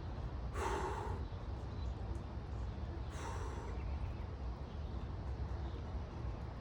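A man breathing hard through the cold of an ice-cold plunge: two forceful breaths, one about half a second in and one about three seconds in, over a steady low rumble.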